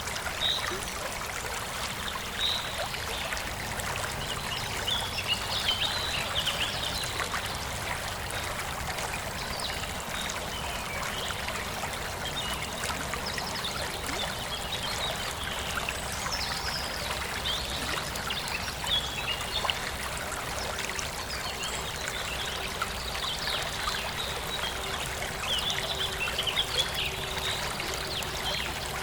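Forest stream flowing and trickling steadily, with small birds chirping on and off over it.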